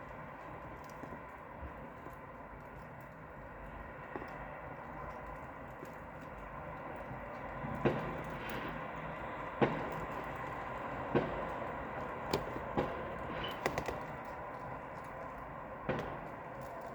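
Fireworks going off: scattered sharp bangs and cracks at irregular intervals, about eight of them from around halfway in, over a steady background noise.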